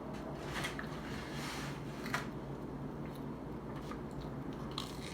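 Close-up eating sounds: a person chewing, with a few sharp clicks and a short rustling burst about a second and a half in, over a steady low hum.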